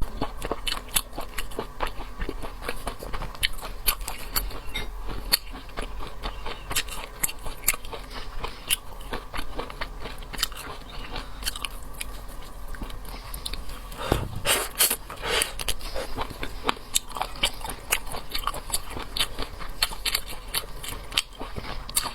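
Close-miked biting and chewing of seafood: dense crunching and many sharp clicks, loudest in a burst about fourteen seconds in.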